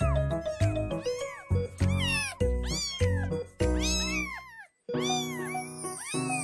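Newborn kittens crying: short, high-pitched, repeated mews, rising and falling, about two or three a second, over background music with a steady bass line. Everything cuts out briefly about three-quarters of the way through.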